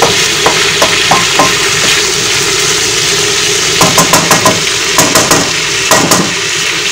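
Diced carrots, green beans, sweet corn and spring onions sizzling in a little oil in a wok while a wooden spatula stirs them, knocking and scraping against the pan in quick clusters about a second in and again from about four seconds in.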